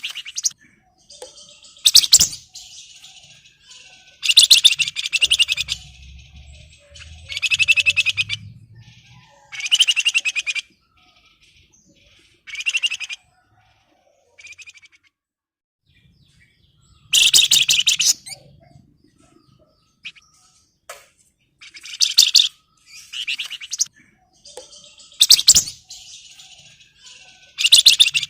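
Javan fulvetta (wergan Jawa, the 'flamboyan' of bird keepers) singing in repeated short bursts of rapid, high chattering notes with brief pauses between them. This is the excited song of a male in breeding condition calling out a rival.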